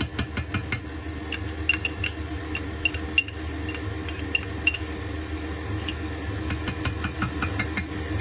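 A metal spoon clinking rapidly against a glass container while stirring, in several short bursts of quick taps, over a steady low hum.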